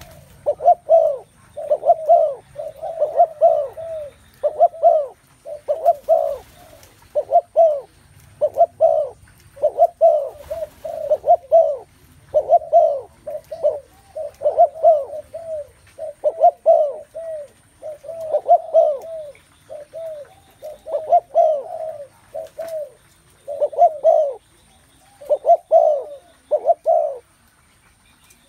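Spotted doves cooing, short phrases repeated one after another almost without a break, stopping about a second before the end.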